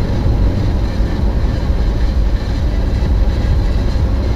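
Steady low rumble of a moving vehicle, road and wind noise, with no distinct impacts.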